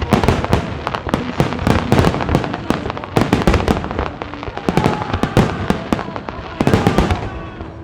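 Aerial fireworks going off in quick succession, a dense run of sharp bangs and crackles that thins out near the end.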